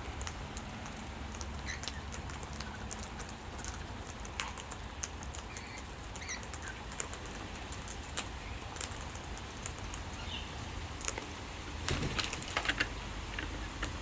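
Lorikeets pecking at food: irregular small beak clicks and taps, busiest near the end, with a few faint short chirps.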